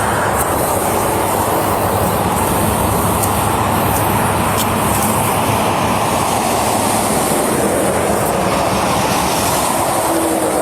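Steady, continuous roar of vehicle and road noise on a highway, without a break or change.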